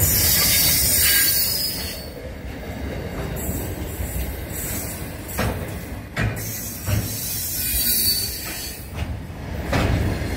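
Pacific National freight train's container wagons rolling past close by, wheels on rail giving a steady rumble with a high-pitched hiss that swells in the first couple of seconds and again later, and a few sharp clunks in the second half.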